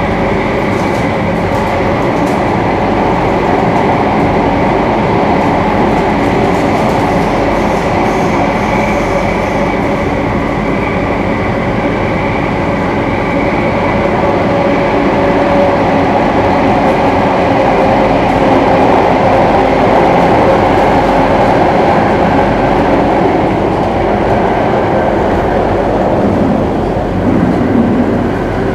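Singapore MRT train running at speed, heard from inside the carriage: a steady rumble of wheels on rail with an even motor hum, swelling a little in loudness.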